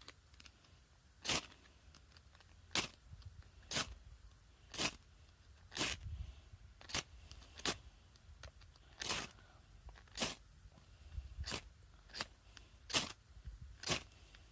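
Short, sharp scrapes, about one a second, of the teeth of a broken reciprocating-saw blade raked down a hard old firesteel rod, throwing sparks to light a firestarter block.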